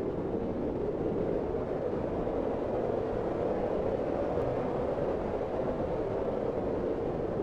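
Steady Arctic wind, a low, even rush without gusts or breaks.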